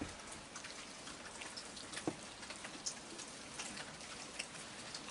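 Rain falling steadily, a soft even hiss dotted with many small scattered drop ticks, one a little louder about two seconds in.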